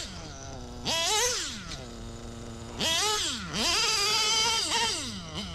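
Novarossi-based Ultimate M5 .21 nitro engine in a Traxxas Revo revving up and down. A high whine rises and falls about a second in, then a steadier lower tone, then a long high-pitched run from about three seconds that drops away near the end.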